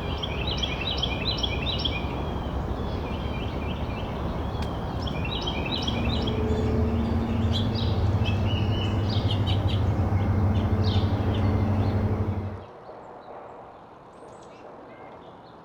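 Small songbirds chirping in quick repeated runs of high notes over a steady background rumble. A low droning hum joins about six seconds in. The rumble and hum cut off abruptly near the end, leaving only faint chirps.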